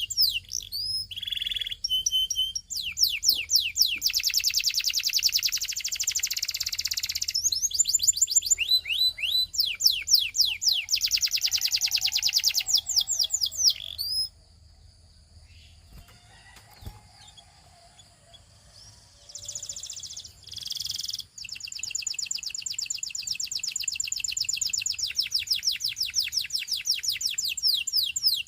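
A Belgian singing canary sings fast rolling trills of rapidly repeated, high, falling notes. About halfway through it stops for roughly five seconds, then comes back with a few short phrases and a long trill.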